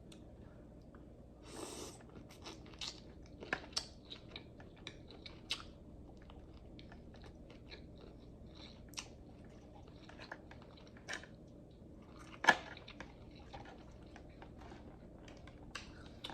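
Close-miked chewing and biting of seafood, with intermittent crunches and short mouth clicks. One louder sharp click comes about twelve seconds in.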